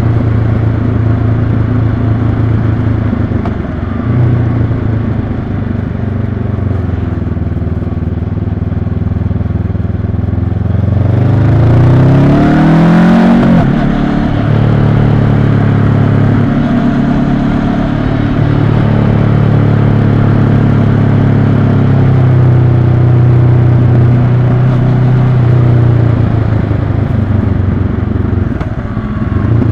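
Honda CB500X's 471 cc parallel-twin engine running steadily under riding load. About eleven seconds in, the revs climb for a couple of seconds, then drop back to a steady note for the rest of the stretch.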